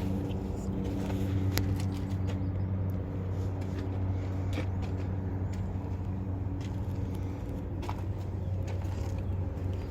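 A steady low engine hum, like a vehicle or machine idling, with a few faint clicks.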